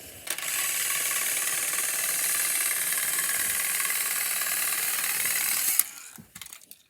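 Small electric motors and gears of battery-powered toy train engines whirring steadily as two engines push against each other head to head. A sharp click nearly six seconds in, and the whirring stops.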